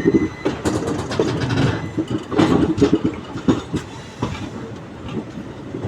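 Indian Railways train's wheels clattering over rail joints and points as it runs into a station, an uneven clickety-clack of knocks that eases off after about three and a half seconds.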